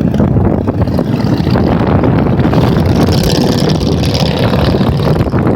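Many motorcycles riding past on a highway, their engines running together in a continuous din that swells as a closer group goes by about halfway through.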